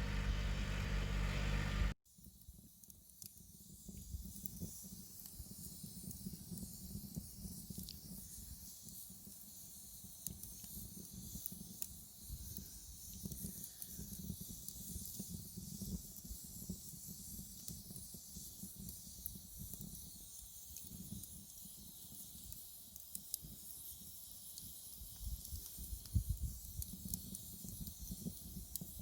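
A Yanmar tractor's diesel engine idling for about two seconds, cut off abruptly. Then a faint wood fire burning: a steady hiss with a low rumble and scattered small crackles.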